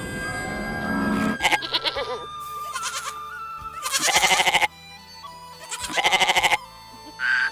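Four animal calls in a row, each with a fast wavering tremble, over background music.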